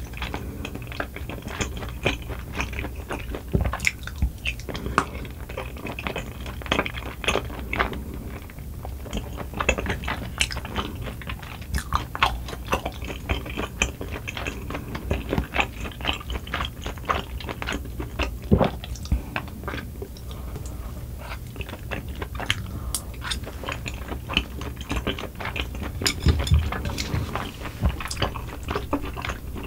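Close-miked chewing of soft, chewy rice cakes and bunmoja glass noodles in cream sauce: dense, irregular wet mouth clicks and squelches, with a long noodle strand sucked in at the start. Near the end a wooden spoon scoops from the bowl.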